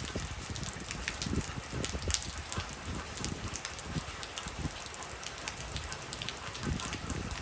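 Heavy rain falling: a steady hiss dense with the quick ticks of drops striking, with irregular low rumbles under it.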